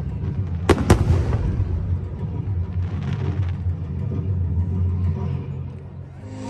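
Two sharp firework bangs in quick succession about a second in, followed by a steady low rumble that fades near the end.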